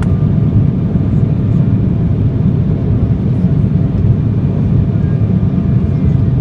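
Embraer 175's GE CF34-8E turbofan engines running, a loud, steady low rumble.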